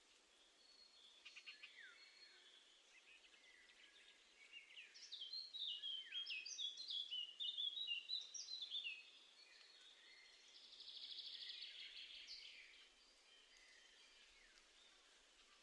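Small garden songbirds singing and calling faintly: a run of quick chirping notes of varying pitch about five seconds in, then a short buzzy trill about eleven seconds in.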